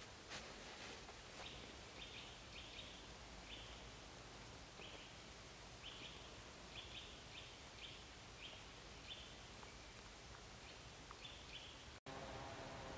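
Faint woodland quiet with a bird giving short, high calls over and over, roughly once or twice a second. Near the end the sound drops out for an instant and a steady hum with several pitches comes in.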